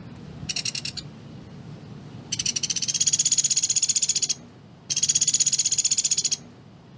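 Pelatuk beras bird giving its rapid rattling trill of closely spaced high notes. A brief burst comes first, then two long runs of about two seconds and a second and a half, each rising slightly in pitch.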